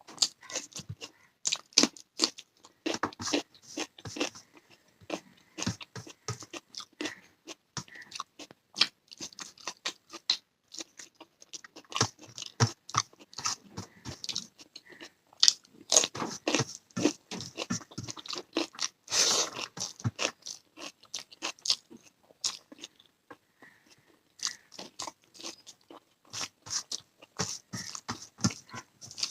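Close-miked eating: a person chewing and crunching a meal of rice, egg curry, raw onion and green chilli, with irregular crisp bites and wet mouth clicks. A louder crunchy bite comes about two-thirds of the way through.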